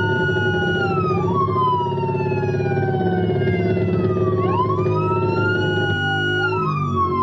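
Police car sirens wailing, with slow rising and falling glides that overlap out of step, over a steady low engine hum.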